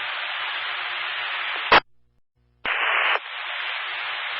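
Radio scanner static: steady hiss of an open transmission with no voice. About two seconds in it cuts off with a sharp squelch burst, goes briefly silent, then a new transmission opens with louder hiss that settles back to the steady static.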